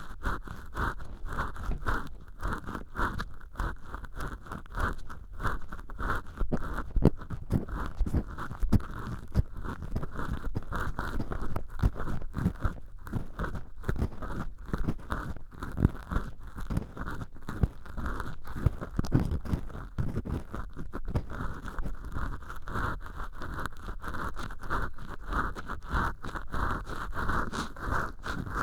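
Cotton swab rubbing and scratching inside an ear canal lined with acrylic dish-scrubber sponge, picked up by the right ear of a silicone ear microphone. It makes a dense, continuous crackling rustle of many quick strokes without a break.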